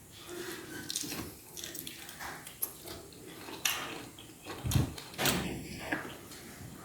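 A person eating grilled whole chicken (lechon manok) close to the microphone: scattered small clicks, smacks and rustles of chewing and handling the food.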